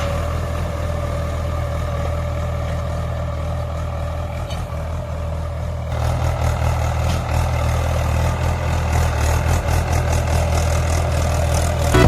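Mahindra 475 DI tractor's four-cylinder diesel engine running steadily, getting a little louder and harsher about halfway through.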